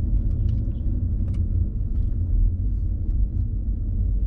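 A car being driven, a steady low rumble of engine and road noise.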